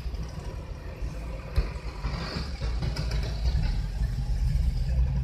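Car engine and road noise heard from inside the cabin as a steady low rumble, with a single light knock about a second and a half in.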